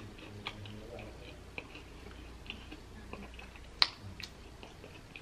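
Close-miked chewing of a bite of hand-breaded fried chicken sandwich: scattered small wet mouth clicks, with one sharper click a little under four seconds in.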